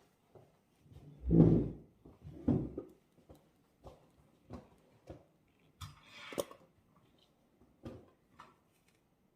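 Things being handled on a desk while studying: two dull thumps, scattered light clicks and taps, and a brief rustle about six seconds in.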